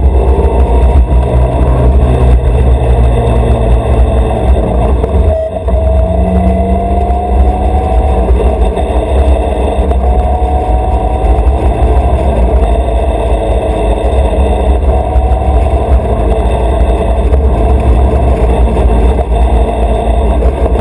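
Tractor engine running loud and steady, with a heavy low rumble and a faint tone that rises slowly. The sound drops out briefly about five and a half seconds in.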